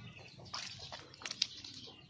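Water splashing and sloshing, with a few sharp splashes, the loudest about one and a half seconds in.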